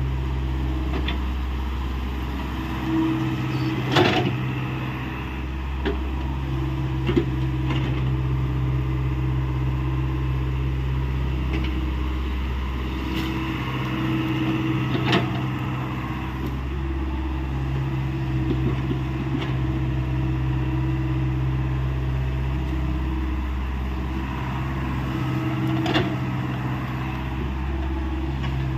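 Hyundai 85 excavator's diesel engine running steadily under working load, its note shifting every few seconds as the hydraulics take up and release load. A handful of sharp knocks cut through, the loudest about four seconds in.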